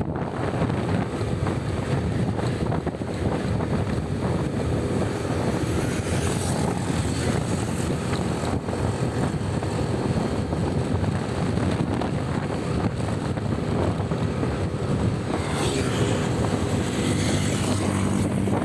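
Wind rushing over the microphone of a moving motorcycle, with the engine and road noise running steadily underneath. The wind hiss swells briefly a few times.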